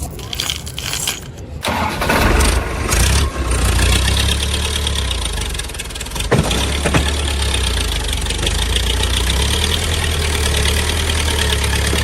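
Tractor engine starting: uneven noise for the first second or so, then the engine catches about two seconds in and runs steadily.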